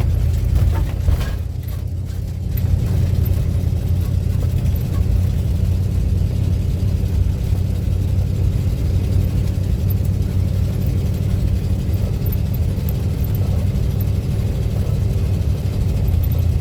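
Steady low road and engine rumble heard from inside the cabin of a moving car, dipping briefly about two seconds in.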